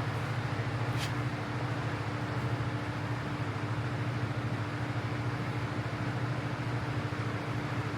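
Steady machine hum with a constant low drone and a faint steady tone above it, and one faint tick about a second in.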